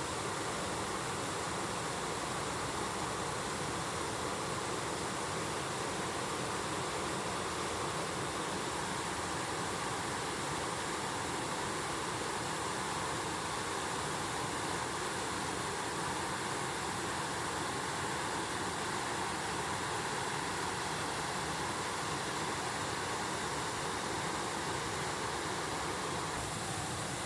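Mountain stream water rushing, a steady, unbroken sound that does not change in level.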